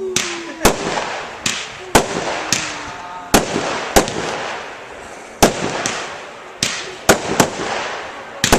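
Professional fireworks display: shells bursting in quick succession, about two bangs a second, each followed by a fading crackling hiss.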